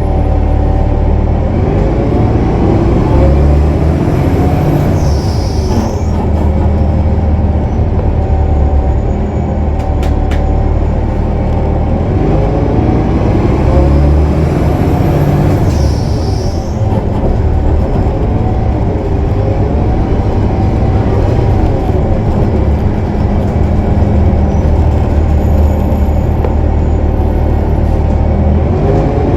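Cummins ISL9 diesel engine of a 2015 Gillig Low Floor transit bus running steadily at highway speed. A high turbocharger whistle rises and falls twice, about 5 and 15 seconds in.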